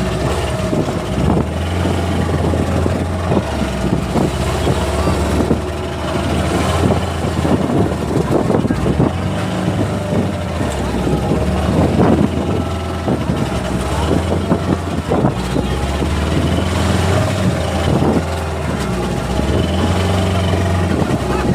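An engine running steadily at a low hum that fades and returns a few times, with scattered knocks and clatter over it and faint voices.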